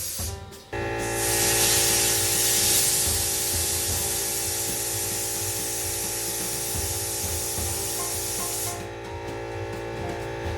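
Compressed air hissing out of an opened cold-water line as the plumbing is blown out for winter. It starts just under a second in and cuts off about two seconds before the end, over steady background music.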